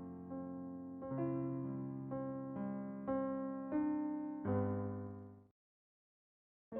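Background piano music, slow sustained chords that fade out about five and a half seconds in, followed by a second of silence before the music starts again right at the end.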